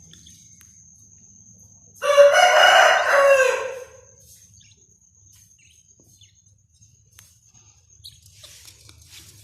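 A rooster crowing once, for about two seconds, starting about two seconds in.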